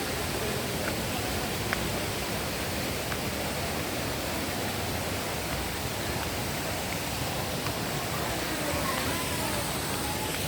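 Steady rushing noise of a waterfall, an even hiss of falling water.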